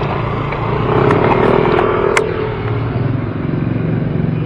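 Road traffic heard while riding in the street, with a motor vehicle, likely a motorcycle, running close by from about one to three seconds in. There is a single sharp click just after two seconds.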